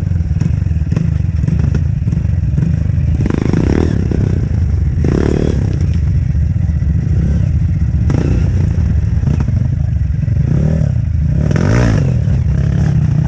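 Off-road dirt bike engine running under load and revving up and down in bursts, with clattering and scraping from the bike working over rough, muddy trail.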